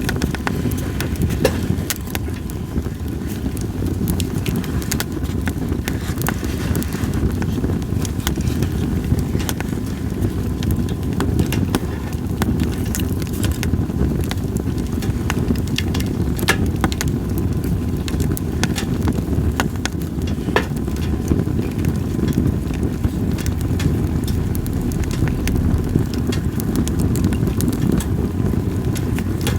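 Wood fire of split sawtooth oak (kunugi) logs crackling, with frequent sharp pops at irregular intervals over a steady low rumble.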